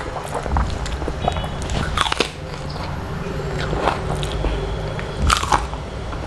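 A person chewing and biting a crisp fried lentil fritter (dal pakoda), with a few sharp crunches spread through the chewing.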